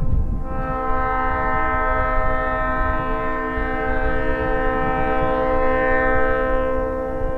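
Diesel locomotive's air horn (an EMD SD45T-2) sounding one long chord blast from about half a second in, easing off near the end, over a low rumble.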